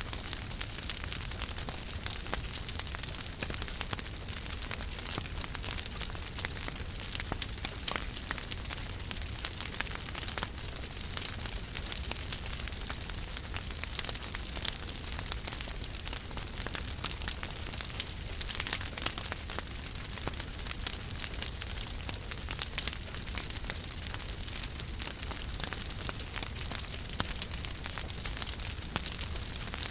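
Wood fire crackling steadily in a fireplace, a constant hiss of fine crackles with a few louder pops.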